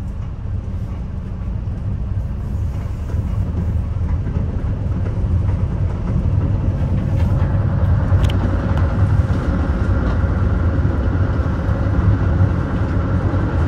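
Metra commuter train's rail car running at speed, heard from inside the cab car at the rear: a steady low rumble of wheels on rail that grows louder about four seconds in, with a faint high ringing tone joining about halfway through.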